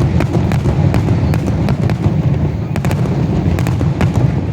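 Fireworks finale: aerial shells bursting in rapid, overlapping succession, a continuous deep rumble of booms with many sharp cracks on top, several a second.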